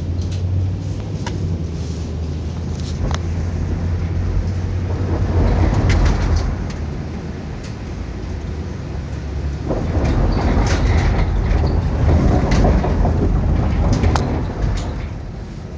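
Car driving: steady engine hum and road noise heard from inside the cabin, swelling louder twice, with scattered sharp clicks and crackles.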